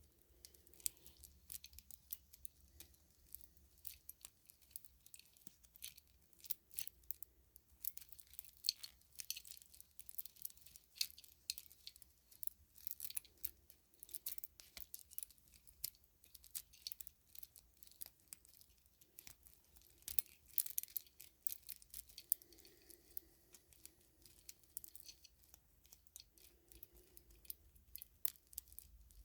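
Close-up handling of white-cord string lights with clear bulbs: a steady run of small, sharp plastic clicks and rustles as the cord and bulbs are moved about by hand.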